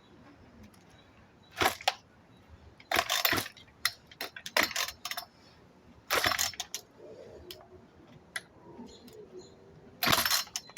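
Craftsman 36 cc chainsaw's recoil starter pulled about five times in short rasping bursts, with clicks between, on a choked cold start; the engine does not catch and the starter cord keeps sticking.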